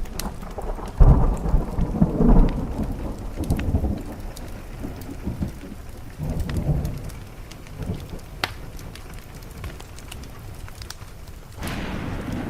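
Thunder rumbling in heavy rolls, loudest about a second in and again just after two seconds, with a weaker roll in the middle and a fresh one starting near the end, over steady rain on a window. A few sharp pops of a crackling wood fire stand out between the rolls.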